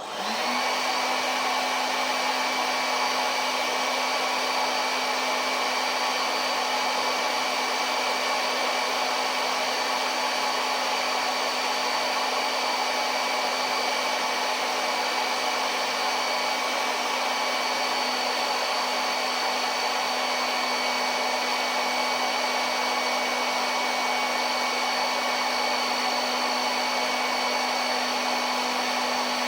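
A small electric fan motor in a homemade blower switches on and runs at a steady speed, a rush of air with a constant hum and a high whine.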